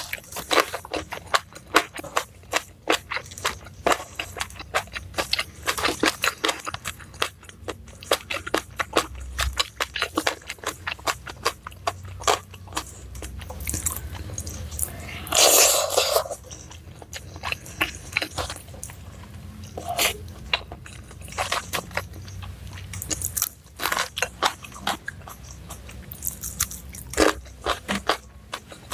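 Close-up mouth sounds of a person biting and chewing crisp raw vegetables: rapid sharp crunches, dense at first and sparser later. A longer, louder rustling burst comes a little past halfway.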